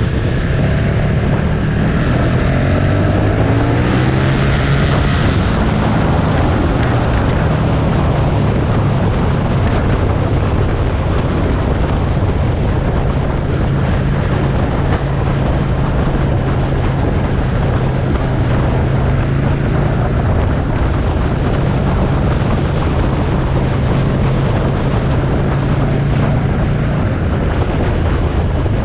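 Motorcycle engine pulling harder, its pitch rising over the first few seconds, then holding a steady note at cruising speed. Heavy wind rush on the microphone runs under it.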